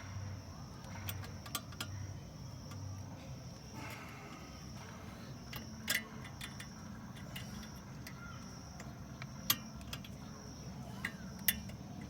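Scattered light metallic clicks and clinks of brake parts and tools being handled and fitted, with a few sharper clicks standing out.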